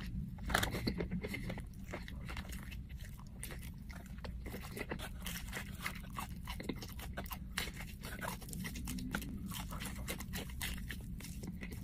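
Crunching and chewing of a crispy breaded fried chicken sandwich: repeated bites into the fried coating, with many short, irregular crackles.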